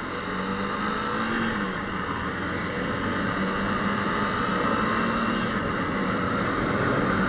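Motorcycle engine running while riding, mixed with wind and road noise, its steady note slowly getting louder.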